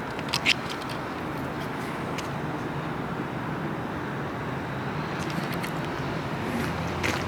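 Steady outdoor hum of road traffic, with two short clicks about half a second in.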